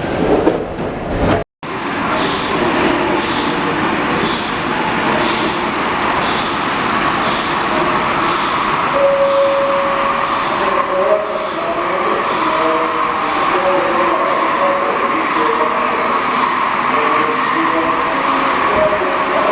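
Rubber-tyred NS-74 metro train running, cut off briefly about a second and a half in. It then carries on as a steady running hum with a faint high tick repeating about once a second.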